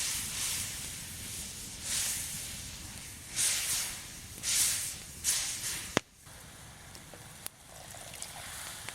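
Several short bursts of rustling, scraping noise in quick succession, then a single sharp snap or click about six seconds in and a fainter one a little later.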